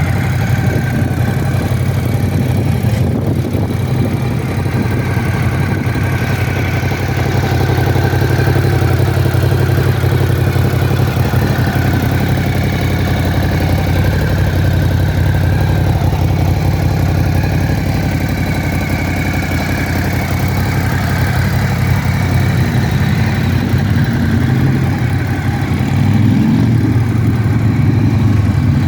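Ducati Scrambler 1100's air-cooled L-twin engine idling steadily, growing a little louder near the end.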